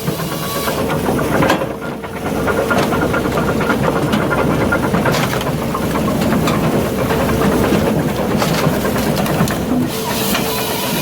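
Japa 435 firewood processor running on its 50 hp Kubota diesel engine, with a steady mechanical noise and a string of knocks and clatter from the machine at work.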